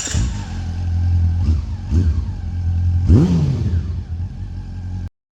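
Honda CB400 Super Four Revo's inline-four engine through a Moriwaki aftermarket exhaust, running with three quick throttle blips that rise and fall in pitch, the biggest about three seconds in. The sound cuts off suddenly near the end.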